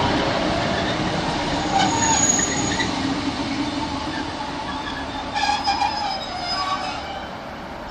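Class 156 diesel multiple unit running along the platform and slowing, its rumble fading. There are short high-pitched squeals with clicks as it brakes, about two seconds in and again near six seconds.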